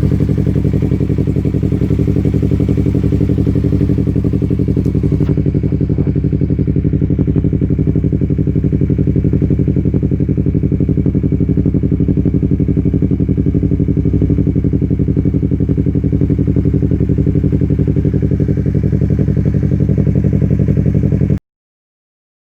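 Exhaust of a 2015 Yamaha R3's parallel-twin engine idling steadily, with an even, rapid pulsing and no revving; it cuts off abruptly near the end.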